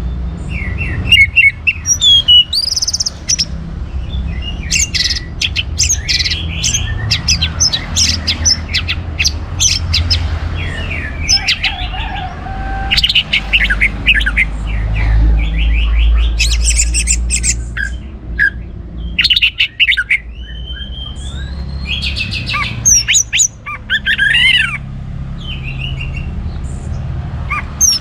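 Orange-headed thrush (anis merah) singing a fast, varied song of chirps, trills and gliding whistles in rapid phrases, over a low steady hum.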